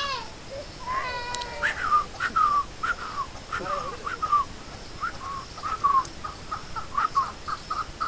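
Birds calling: a couple of longer calls in the first second or so, then a run of short chirps that comes faster toward the end.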